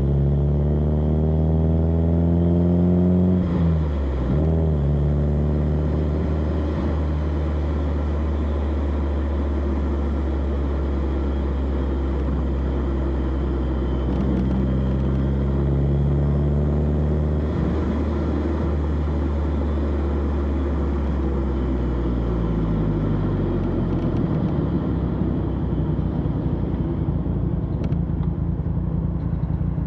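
Exhaust of a 1991 BMW E30 316i's 1.6-litre four-cylinder, heard close at the tailpipe while driving. It pulls up through the revs with gear changes about four seconds in and again past the middle. It then winds down as the car slows, settling into a low, even rumble for the last few seconds.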